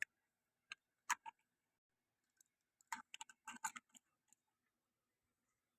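Faint, scattered clicks and light knocks from handling, a few near the start and a quick cluster of several about three to four seconds in, over near silence.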